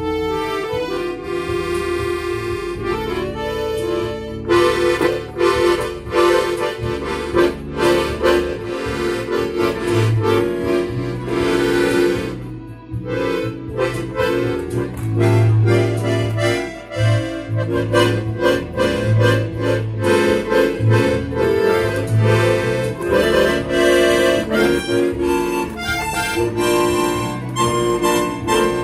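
Accordion playing a tune, a melody over separate bass notes, with a brief pause about thirteen seconds in.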